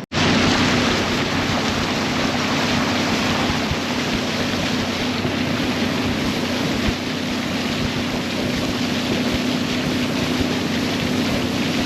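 A boat's motor running steadily with a low hum, under a loud even rush of wind and water.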